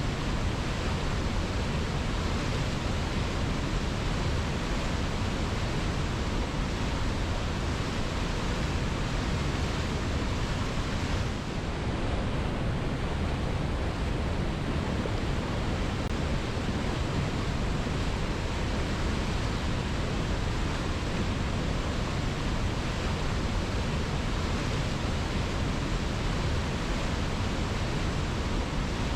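Waterfall: water pouring over rock in a dense, steady rush with no breaks, with a brief slight dip in level about twelve seconds in.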